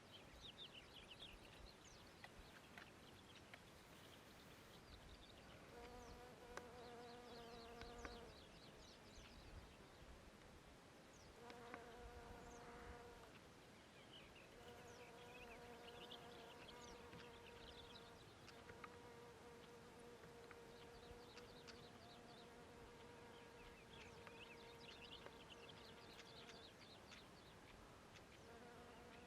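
A flying insect buzzing close by in a meadow, passing in and out several times for a few seconds each. Faint clusters of high chirping sound behind it.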